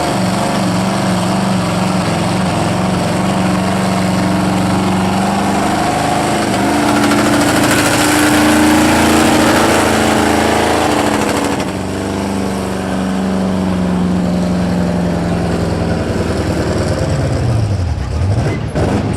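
A pulling truck's engine running hard at high, fairly steady revs under load, with a louder rush of noise around the middle. Near the end the revs fall away as the pull stops.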